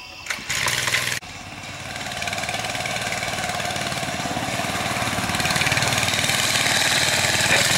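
Mini bike's small engine running steadily and growing louder as the bike comes closer. A short noisy rush in the first second breaks off abruptly.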